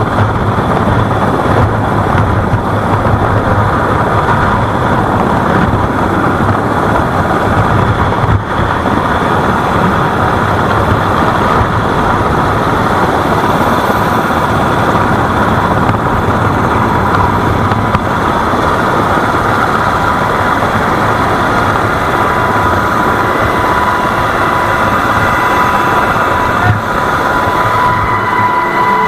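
An engine running steadily and loudly, with a low hum under a dense rushing noise; a steady high whine joins in over the last several seconds.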